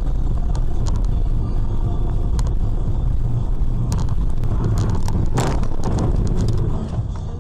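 Car road noise picked up by a dash camera: a steady low engine and tyre rumble with scattered clicks and knocks, and a louder rushing burst about five and a half seconds in.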